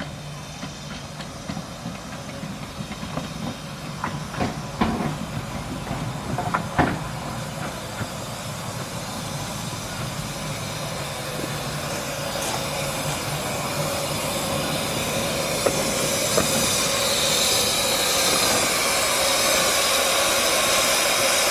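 Romney, Hythe and Dymchurch Railway miniature train running, with a few sharp clicks and clanks in the first several seconds. A steady rushing hiss of the moving train follows and grows louder toward the end.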